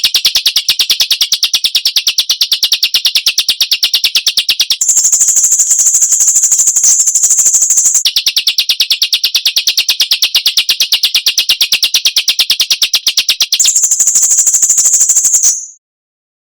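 Songbird masteran trill: a very fast, machine-even run of harsh repeated notes. It switches to a higher-pitched trill about five seconds in, drops back to the lower trill at about eight seconds, and goes high again near the end before cutting off suddenly.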